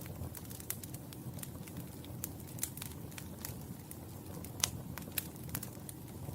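Fireplace fire crackling: irregular sharp pops and snaps over a low steady rumble. The loudest pop comes about two-thirds of the way through.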